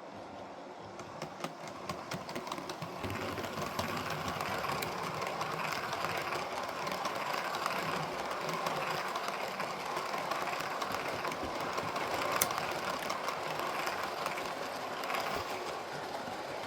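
Model train running along the layout's track: a steady running noise with many small rapid clicks from the wheels on the rails, getting louder about three seconds in.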